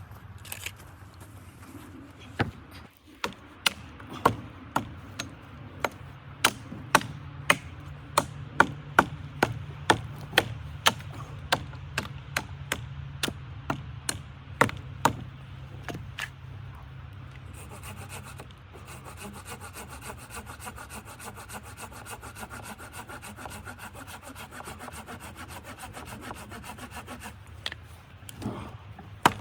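Wood being sawn by hand, in even strokes about two a second, then a softer, steadier rasping for the rest.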